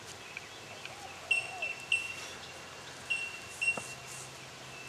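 Birds calling outdoors: two pairs of short, clear, high notes that are the loudest sounds, with two lower, curving calls about a second in, over a steady rural background.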